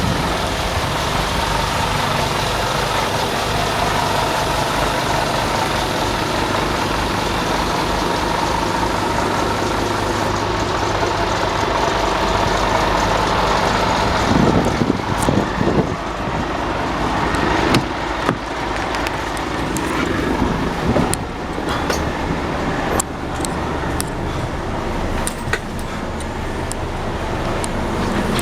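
Scania P280 truck's diesel engine running steadily. From about halfway, irregular clicks and knocks sound over the running engine.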